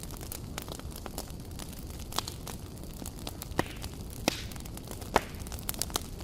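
Campfire crackling: irregular sharp snaps and pops over a steady low rumble, with the loudest pops about four and five seconds in.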